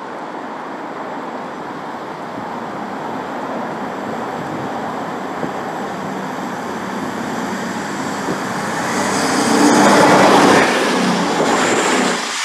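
CrossCountry Voyager diesel multiple unit approaching at speed and passing close by. Its underfloor diesel engines and the rush of the train grow steadily louder to a peak about ten seconds in, then the low rumble falls away sharply as it goes by.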